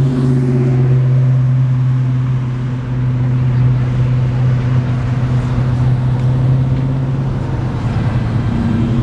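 Car engines running as vehicles cruise slowly past: a steady low engine note that changes pitch about seven seconds in as the next car comes by.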